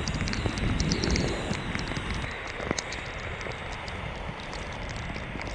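Heavy rain falling on a moored sailboat, a steady hiss dotted with many small sharp ticks of drops hitting the boat, with some wind.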